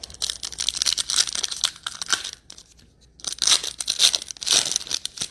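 Foil wrapper of a trading-card pack being torn open and crinkled in the hands, in two spells of crackly rustling with a short pause between them.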